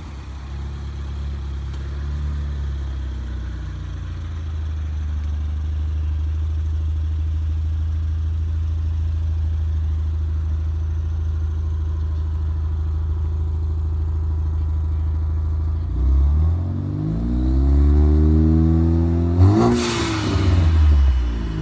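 2017 Ford Focus ST's turbocharged 2.0-litre four-cylinder idling steadily through a muffler-deleted exhaust, then revved about three times near the end. As the revs drop after the second blip, a sharp hiss: the blow-off valve venting.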